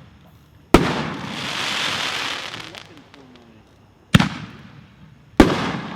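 60-gram canister firework shells going off: three sharp booms, about a second in, then past four seconds and again just after five. The first is followed by about two seconds of hiss.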